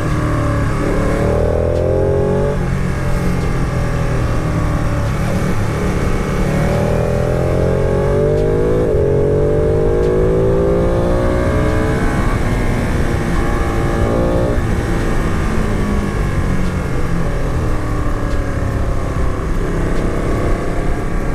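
Sport motorcycle engine under way, revving up through the gears: its pitch climbs, drops at a shift and climbs again about four times, over a steady rumble of wind and road noise.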